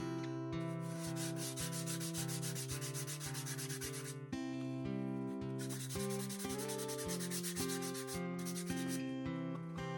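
Sandpaper scraping back and forth over the dried acrylic paint of a painting, knocking back paint that has built up too heavily. It goes in quick, even strokes, several a second, in two runs with a short pause between them. Background acoustic guitar music plays underneath.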